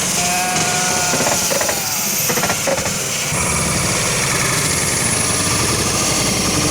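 Passenger train rolling past at close range, its wheels clattering rhythmically over the track; the clatter becomes denser about three seconds in.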